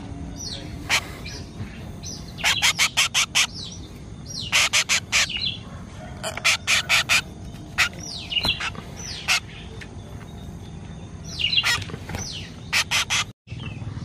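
Bird calls: several short falling whistled notes and about five bouts of rapid, harsh chips, each bout lasting under a second.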